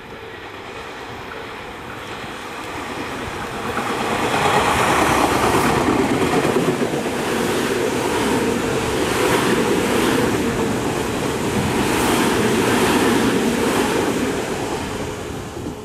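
Tobu Tojo Line electric commuter train passing at speed without stopping. A rolling rumble builds up about four seconds in, then holds loud with repeated clacks of wheels over rail joints, and eases off near the end.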